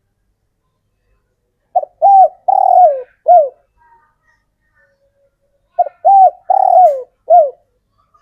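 Male spotted dove cooing: two four-note coo phrases about four seconds apart. Each note falls in pitch, and the third note of each phrase is the longest. It is the male's advertising song, used to call females.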